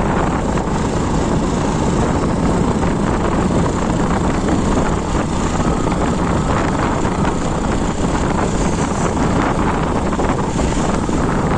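Motorcycle on the move: engine running under a steady rush of wind on the microphone.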